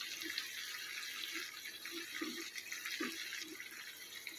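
Sliced potatoes cooking in a wok with a faint, steady sizzling hiss, and a few soft faint taps as tomato slices are set on top.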